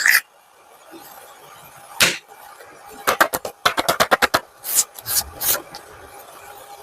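Paper being worked by hand: a single scratch, then a quick run of about eight short scratchy strokes and a few more after a pause.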